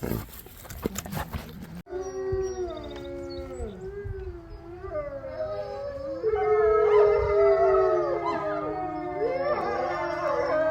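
A pack of gray wolves howling in chorus: several long howls overlapping, each sliding up and down in pitch, with the chorus fuller and louder from about six seconds in. It opens with a second or two of short sharp noises before an abrupt cut.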